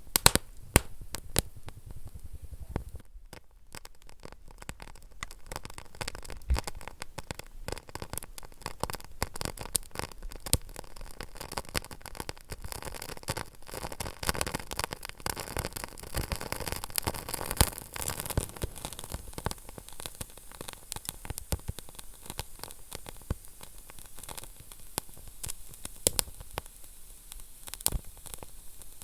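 Wood fire burning in a fireplace: constant crackling and popping over a low hiss, with sharper pops here and there, a brief lull a few seconds in and a busier stretch past the middle.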